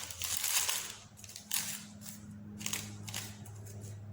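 Paper rustling and crinkling in short bursts, strongest in the first second, as crumpled pieces of paper are pressed into a paper-craft bonfire. A low steady hum runs underneath.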